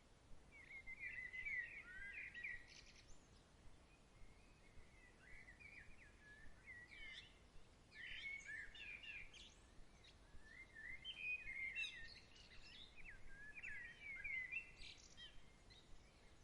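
A songbird singing faint, rapid warbled phrases in several bouts of a few seconds each, over a soft background hiss.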